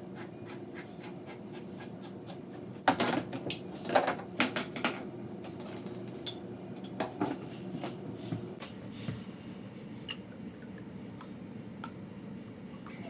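A can of cream of mushroom soup being opened and emptied into a crock pot: a string of short metal clinks and scrapes, busiest about three to five seconds in and again around seven, then a few lighter taps.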